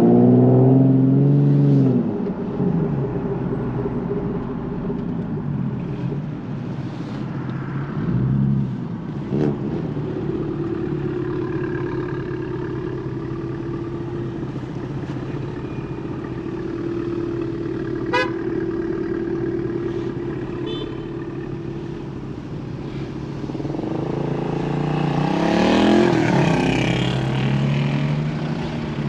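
2009 Nissan 370Z's 3.7-litre V6 through a Tomei titanium catback exhaust. The engine is loud at the start and its note falls away. It then runs steadily while cruising, and rises again under acceleration a few seconds before the end before easing off.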